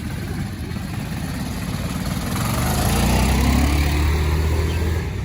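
Quad bike engine running, then revving up and getting louder about halfway through before dropping away near the end.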